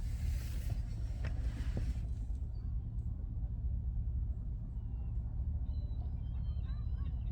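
Steady low rumble throughout, with a brief hiss in the first two seconds; from about two-thirds of the way in, high bending calls of gulls start over it.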